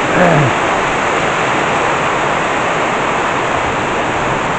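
Heavy tropical downpour during a thunderstorm: a steady, dense hiss of rain. A short low voice sound falls away right at the start.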